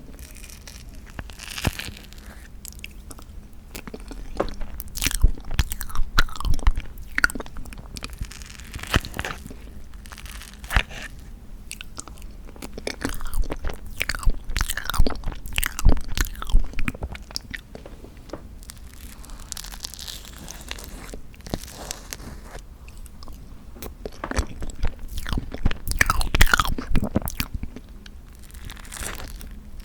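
Close-miked eating sounds of tofu tiramisu: mouthfuls being bitten and chewed with many small clicking mouth noises. The chewing comes in three bouts, with quieter pauses between them.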